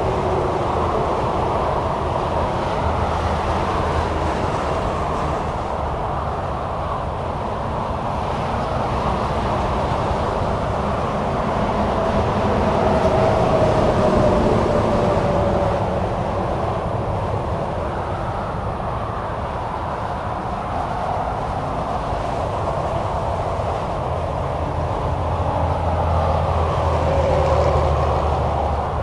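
Continuous highway traffic: the rush of tyres and engines from cars and semi-trucks passing. It swells as heavier vehicles go by about midway and again near the end, one of them with a whine that drops in pitch as it passes.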